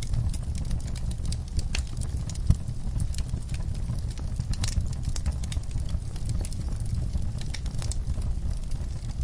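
Wood fire in a fireplace crackling, with irregular sharp pops and snaps over a steady low rumble; one louder pop about two and a half seconds in.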